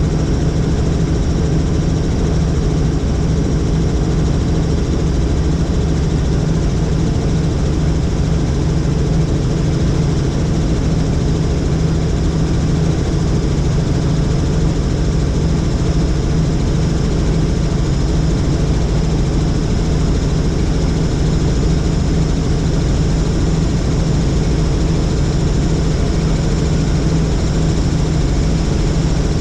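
Helicopter in flight: a steady, unchanging drone of rotor and engine, with a low hum of several steady tones.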